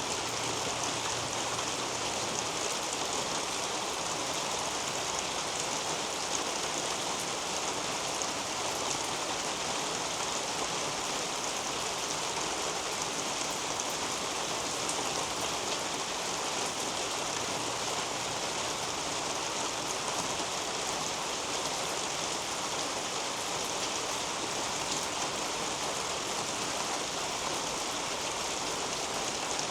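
Steady rain falling through a leafy garden canopy: an even hiss with a fine patter of drops.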